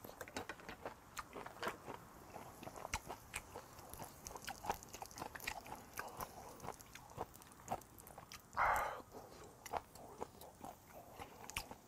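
Close-miked chewing and wet mouth clicks of a person eating grilled beef intestines, with small crunches. About eight and a half seconds in, a short breathy exhale.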